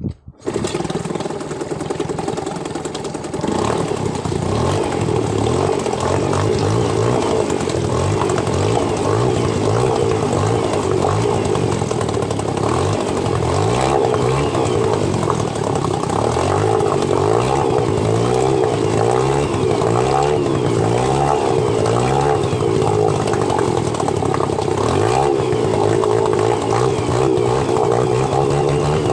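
Yamaha 2 hp outboard boat motor starting up and running to warm up. It catches right at the start, runs a little quieter for the first few seconds, then settles into a steady, louder run with its speed wavering slightly.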